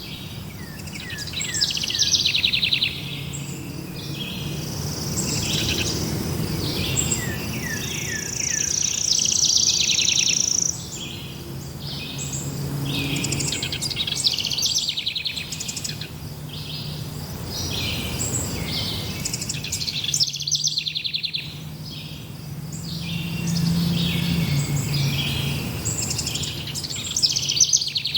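Several forest birds singing and chirping at once: quick trills, whistled phrases and rapid repeated notes overlapping throughout, over a steady low background hum.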